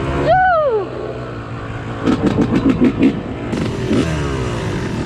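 Dirt bike engines at a motocross track: one drops sharply in pitch just after the start, then a rapid series of throttle blips follows in the middle, over the steady drone of other bikes.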